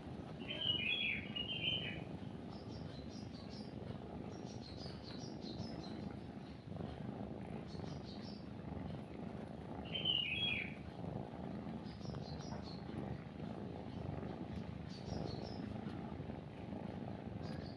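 A cat purring steadily and close, with birds calling over it: two louder, falling calls of about a second each, one near the start and one about ten seconds in, and fainter high chirps in between.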